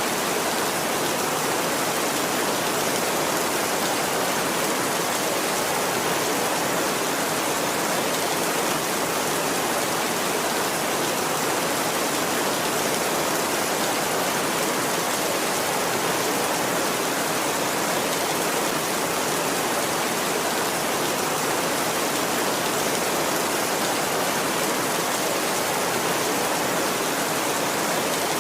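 Steady heavy rain: an even, unbroken hiss, with no thunder.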